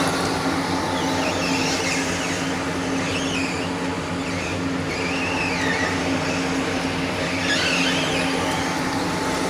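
Copra oil press machine running with a steady mechanical hum at a constant pitch.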